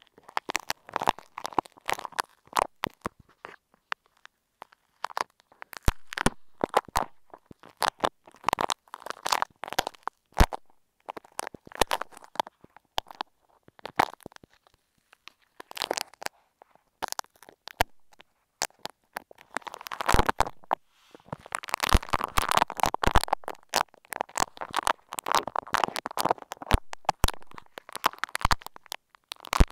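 Bead-textured clay being squeezed and worked close against an earphone microphone, giving dense, irregular crackles and sticky clicks in clustered bursts.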